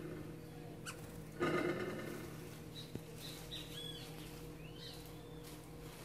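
Caged songbirds calling: a loud, harsh burst about one and a half seconds in, then a string of short, high chirps and whistles.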